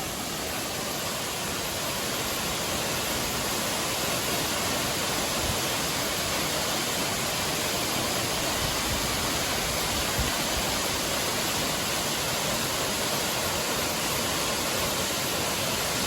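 Waterfall crashing steadily into its plunge pool, heard close up at its base, a dense even rush of falling water; the falls are in strong flow. It grows slightly louder over the first few seconds.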